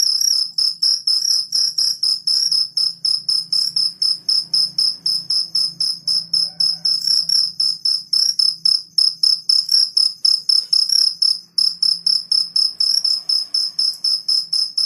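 Jangkrik kalung field cricket (two-spotted cricket) chirping: a steady, loud run of short, high-pitched chirps, about four or five a second, with a brief break a little past the middle.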